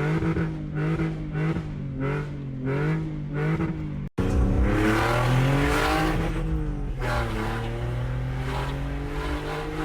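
BMW E46's engine and exhaust under way, the revs rising and falling; the note is obnoxious, like a Honda Civic. A cut about four seconds in, after which the revs climb and fall again.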